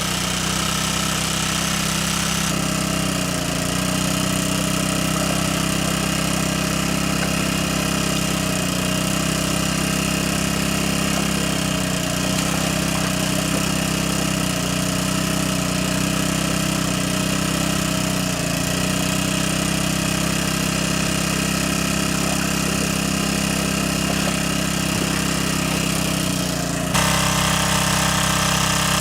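A motor running steadily, with its sound changing abruptly about two and a half seconds in and again near the end.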